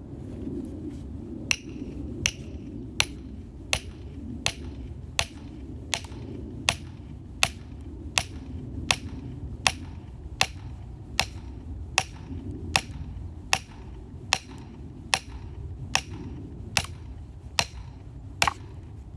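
Steady hammering: sharp strikes about one every three-quarters of a second, over a steady low rumble.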